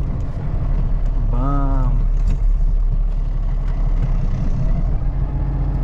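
Heavy snowplow truck's engine running under load with a steady low drone, heard from inside the cab while the plow blade pushes a snow berm aside.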